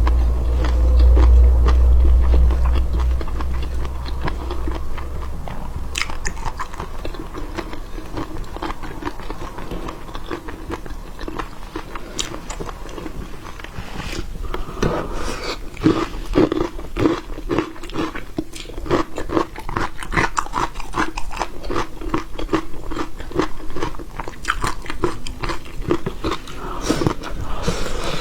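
Close-miked chewing and biting of seafood: a steady run of short clicks and crunches, coming thicker about halfway through, with a low rumble in the first few seconds.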